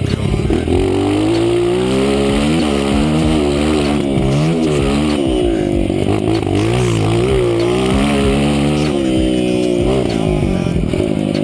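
Honda CRF230's single-cylinder four-stroke engine revving under hard riding, its pitch climbing and dropping again and again with the throttle.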